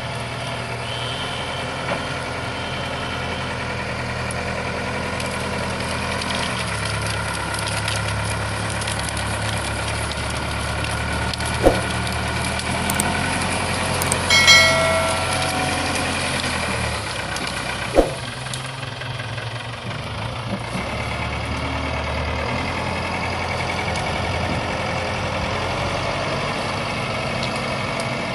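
JCB 3CX backhoe loader's diesel engine running steadily, its pitch shifting a few times as the load changes. Two sharp knocks and a brief shrill tone about halfway through stand out over the engine.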